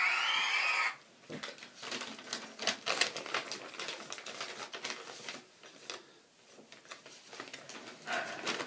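Voices shouting, which stop abruptly about a second in, then a run of quick, irregular clicks and taps for the rest of the time.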